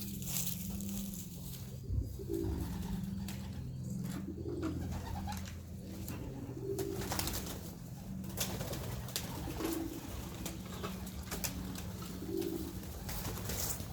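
Domestic pigeons cooing repeatedly in the loft, with scattered light clicks and knocks throughout.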